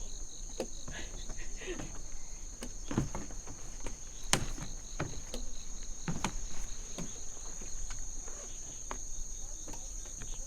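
Crickets chirring steadily in a high, continuous trill, with a finer pulsing chirp beneath it. Footsteps and scattered short knocks sound over it, the sharpest about four seconds in.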